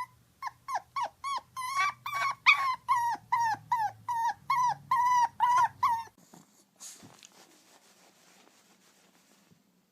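A dog giving a rapid run of short, high, whining yelps, about three a second, that stops abruptly about six seconds in.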